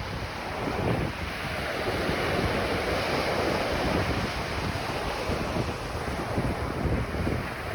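Ocean surf washing onto a beach: a steady rush of waves that swells through the middle and eases again, with wind buffeting the microphone underneath.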